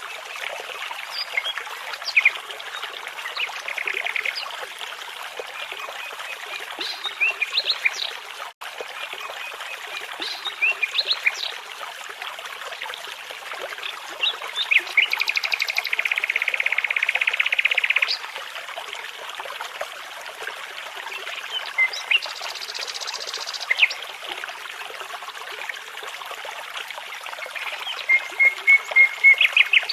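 Songbirds singing over the steady rush of a babbling brook: short calls and phrases throughout, a long rattling trill about halfway through, and a run of quick repeated notes near the end.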